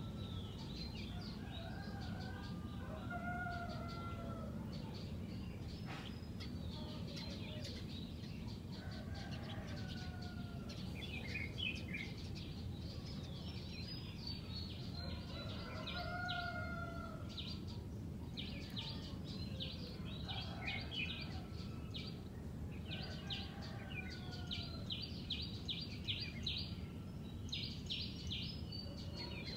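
Red-whiskered bulbuls singing: short warbled phrases every few seconds and quick runs of high chirps, over a steady low background noise.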